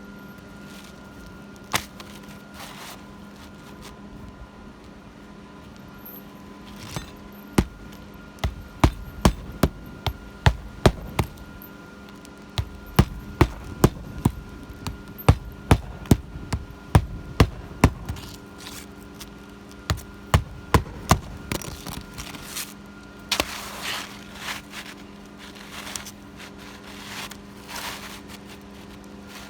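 A hammer striking on an asphalt shingle roof during a shingle repair: a run of sharp blows, about one to two a second, beginning about a quarter of the way in and stopping about two-thirds through, then a few softer scraping sounds near the end.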